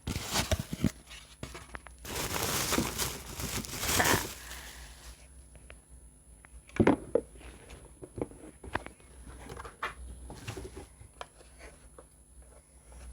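Packaging being torn and crinkled open while a sandwich maker is unboxed, with a long rustling stretch in the first few seconds, then scattered handling knocks and clicks, the loudest about seven seconds in.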